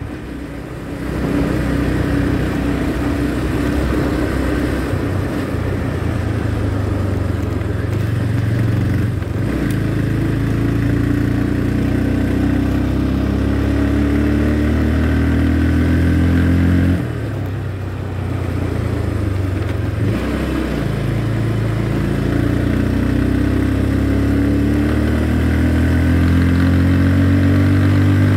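Motorcycle engine running under way, its pitch slowly climbing as it pulls. About 17 seconds in the revs drop suddenly, dip again around 20 seconds, then climb again.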